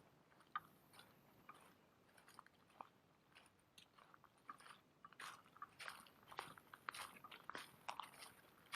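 Near silence with faint, scattered crunching clicks that come more often in the second half.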